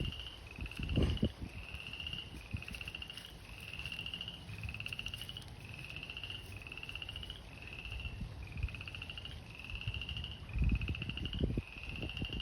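Frogs calling in a pond chorus: a short, rising, pulsing trill repeated about once a second. Low rumbles about a second in and again near the end.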